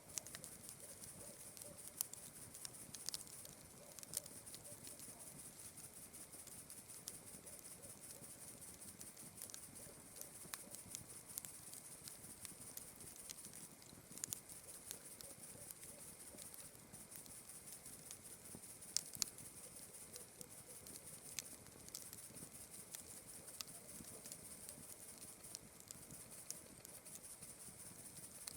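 Campfire crackling: scattered sharp pops and snaps at irregular intervals, the strongest a quick pair about two-thirds of the way through, over a faint steady high-pitched background.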